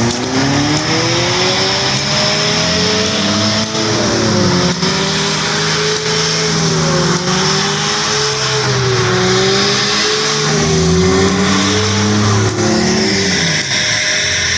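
Car engine revving hard: its pitch climbs over the first few seconds, then is held high and swings up and down again and again, over a steady hiss.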